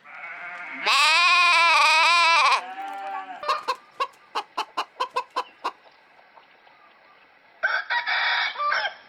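Rooster crowing once, one long call that wavers in pitch. It is followed by a run of about ten quick chicken clucks, and then a short, loud squawk near the end.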